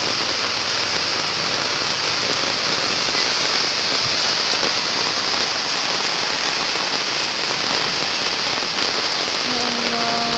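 Heavy rain pouring steadily in a windstorm, an even hiss throughout. Near the end a voice begins a drawn-out call.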